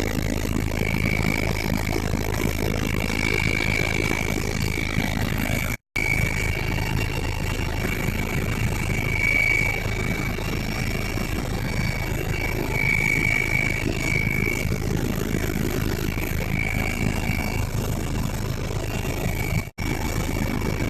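Helicopter engine and rotors running steadily, a dense drone with a high whine that swells and fades. It cuts out abruptly for an instant twice, about six seconds in and near the end.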